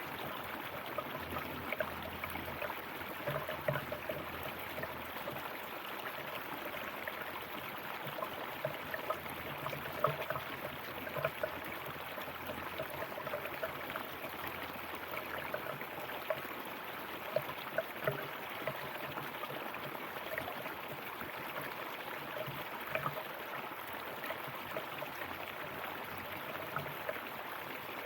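River water flowing steadily over rocks, a continuous rush with small gurgles and splashes scattered through it.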